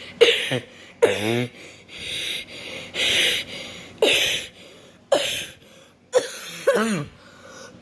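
A person making weird, non-human noises with the voice: a run of breathy hisses and short cries whose pitch slides up and down, about one a second.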